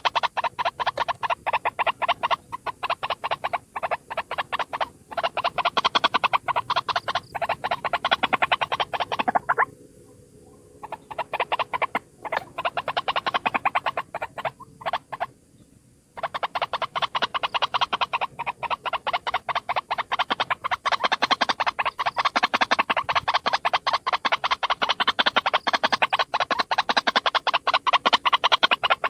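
White-breasted waterhen (ruak-ruak) calling: a rapid, harsh, croaking run of repeated notes, broken by two short pauses about a third of the way in and about halfway.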